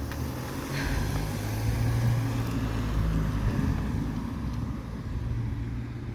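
Steady low rumble of a motor vehicle or passing road traffic, with a faint hum running through it.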